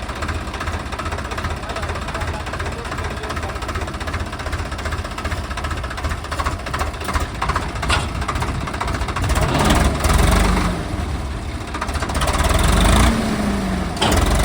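Swaraj tractor's diesel engine running with a steady low beat, revving louder about ten seconds in and again near the end.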